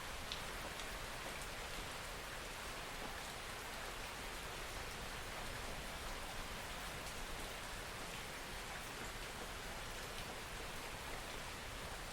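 Steady rainfall: an even hiss of rain with faint, scattered drop ticks.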